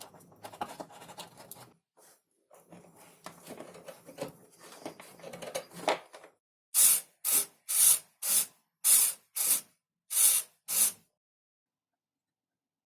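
Hand work on a foam model airplane: soft rubbing and rustling with small clicks, then eight short, loud hissing strokes at about two a second.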